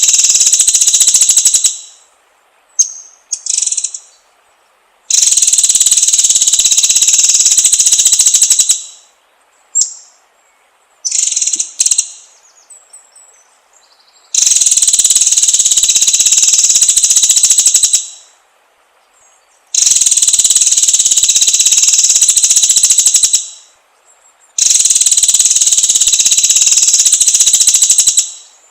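White-rumped shama song: high, rapid trills in long bursts of about three to four seconds, five in all, with short chirps in the gaps between them.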